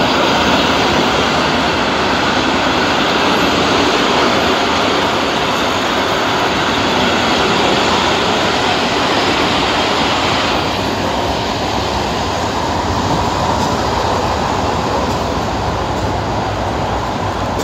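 Abu Qir line suburban train cars passing close by: a loud, steady rumble and rush of wheels on rails. About ten seconds in, the hissing upper part of the noise eases off while the low rumble carries on.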